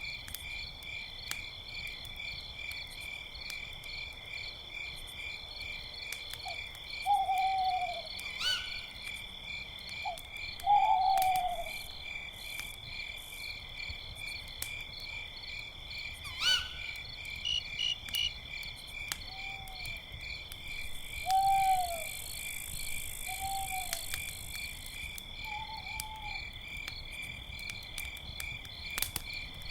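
Crickets chirping in a steady, pulsing night chorus, with an owl giving about six short hoots spread through the second half, beginning about seven seconds in. A couple of sharp pops, like campfire crackles, stand out at moments.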